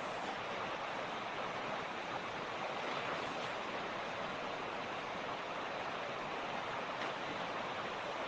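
A mountain creek running: a steady, even rush of flowing water with no change in level.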